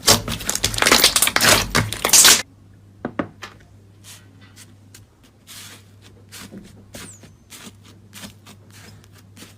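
Slime being squeezed and worked by hand: a loud, dense crackling for about two seconds that cuts off suddenly, followed by faint scattered clicks and small pops.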